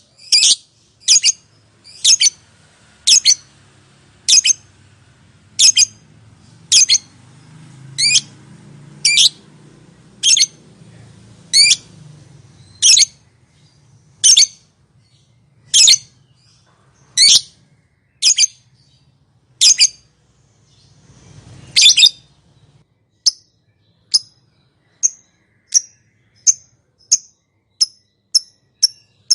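Lovebird giving short, sharp, high-pitched calls at a steady pace of about one a second. About 22 seconds in they change to quicker, softer chirps, roughly two a second.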